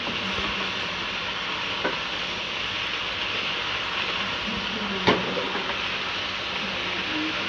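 Chicken and vegetables sizzling in a wok on a gas flame while being stirred with a spatula, with a steady frying hiss. The spatula knocks sharply against the pan once about five seconds in, with a lighter knock near two seconds.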